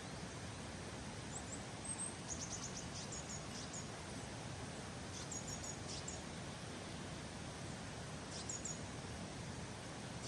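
Small bird chirping in short, high, quick phrases, four or five times, over a steady outdoor background hiss.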